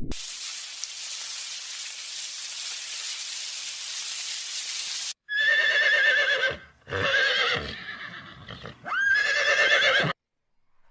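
A steady hiss for about five seconds that cuts off suddenly, then a horse whinnying three times, each call quavering, the last starting with a rising sweep.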